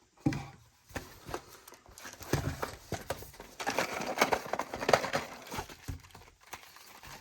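Cardboard and paper rustling with irregular knocks and taps as the contents of a Pokémon Elite Trainer Box are lifted out and set aside. The rustling is busiest in the middle and the later part.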